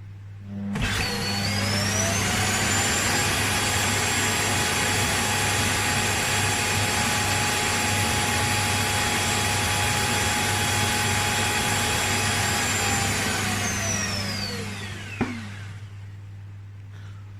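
Suction motor of the Cecotec Conga 7490's self-emptying base spinning up with a rising whine, running steady and loud for about thirteen seconds, then winding down with a falling whine as it finishes emptying the robot's dustbin.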